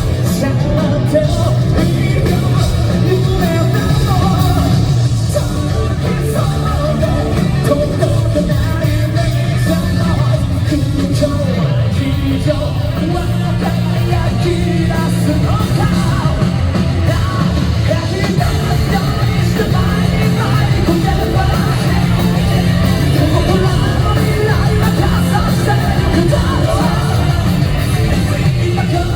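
Live J-rock band playing at full volume: a male lead singer over electric guitar and a dense rock backing, recorded from the audience.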